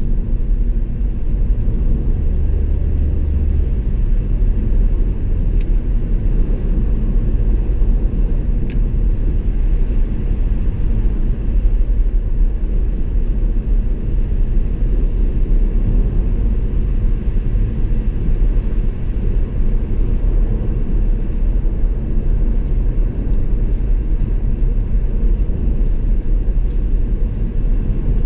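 Car driving along a road: a steady low rumble of engine and tyre noise, with a low hum held for a couple of seconds near the start.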